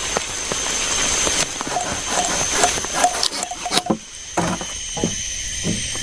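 Rain falling in forest, with scattered drops striking close by. Over it runs a steady high-pitched whine, and a run of short faint calls comes a couple of seconds in.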